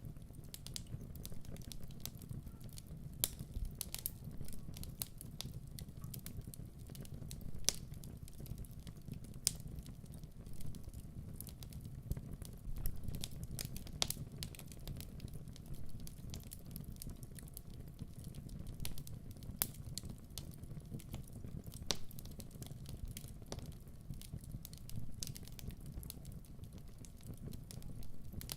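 Wood fire burning in a fireplace: a low steady rumble of flames with irregular crackles and sharp pops throughout.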